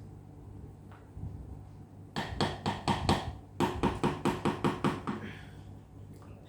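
Potato masher knocking against a cooking pot while mashing buttered potatoes: a rapid run of sharp knocks, a short break, then a second run.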